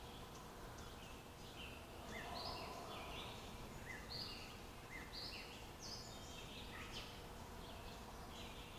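Several birds chirping and warbling, short high notes repeating several times a second over a faint steady outdoor hiss.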